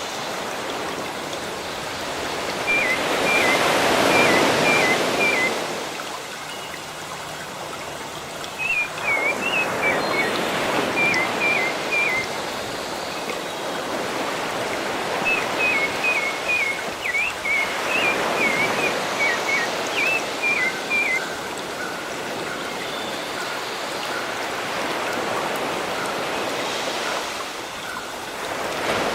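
Sea waves washing in slow swells, one every seven to nine seconds, with a small bird repeating short high chirps in quick runs over them.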